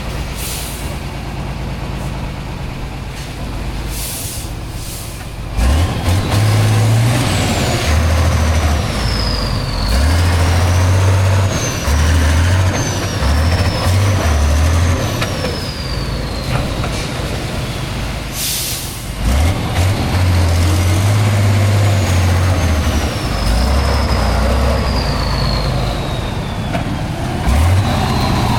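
Heavy off-road trial truck's diesel engine revving hard in repeated surges, with a high whine that slides down in pitch as the revs fall. Short loud hisses of air come through now and then.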